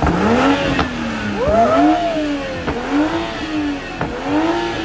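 Toyota GR Supra MK5 engine revved while the car stands still: four rev blips about a second and a half apart, each rising and falling in pitch, several ending with a sharp exhaust pop.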